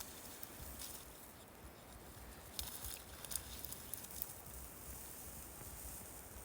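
Faint outdoor ambience: a fluttering low rumble of wind on the microphone, with a few soft clicks or crunches.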